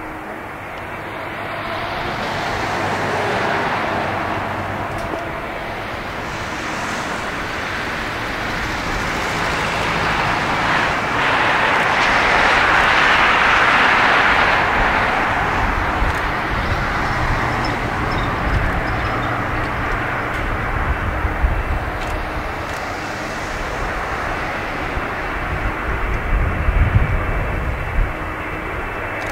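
Boeing 747-400's four Rolls-Royce RB211 jet engines passing close by, the noise swelling to its loudest about halfway through and then easing into a low, crackling rumble near the end.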